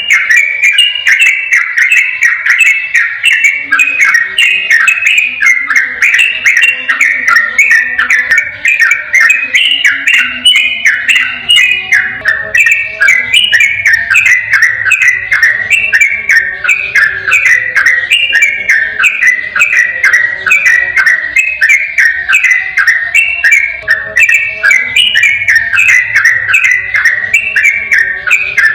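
Sooty-headed bulbul (trucukan) singing a long, unbroken 'ropel' song: a rapid run of short whistled notes, several a second, with no pause.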